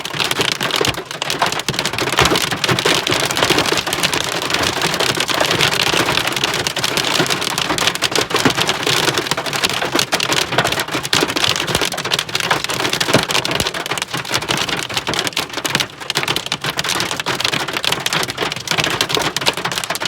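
Heavy rain mixed with hail pelting down: a dense, loud, steady patter full of sharp ticks of individual hits.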